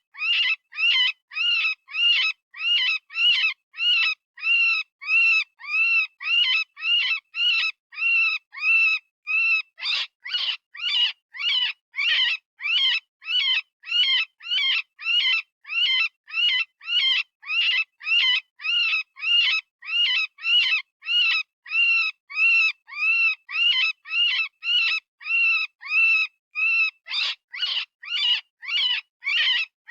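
Software-generated rabbit distress call, used as a predator-hunting call: short, high-pitched screams repeated evenly about twice a second, each one rising and then falling in pitch.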